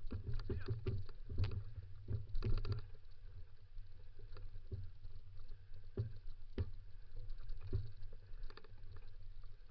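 Dog-pulled kick scooter rolling over a rough dirt trail: a steady low rumble with irregular knocks and rattles as it bumps along.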